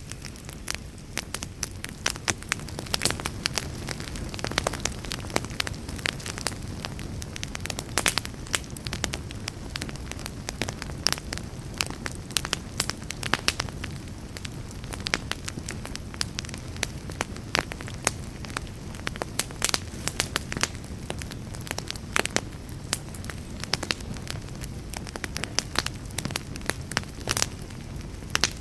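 Wood campfire crackling: irregular sharp pops and snaps, several a second, over a steady low rush of the burning fire.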